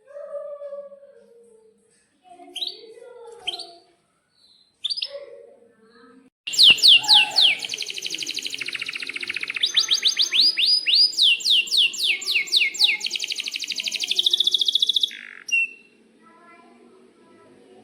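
Domestic canary singing a long, fast song: runs of rapidly repeated downward-sweeping chirps, ending in a quick rolling trill. A few scattered short chirps come first; the full song starts about six seconds in and stops near fifteen seconds.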